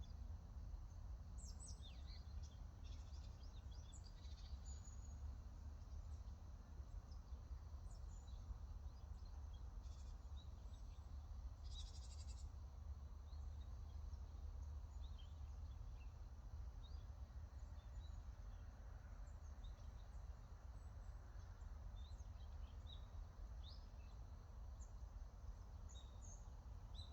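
Small birds chirping and calling on and off in short, high notes, with a brief buzzy trill about twelve seconds in, over a steady low rumble.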